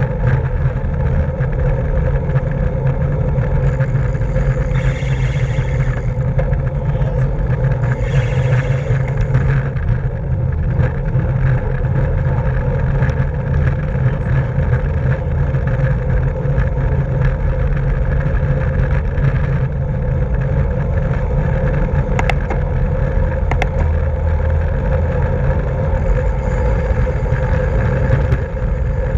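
Steady rush of wind and road noise from a bicycle riding at racing speed in a criterium. Two brief brighter stretches come about five and eight seconds in, and a couple of faint clicks come near the end.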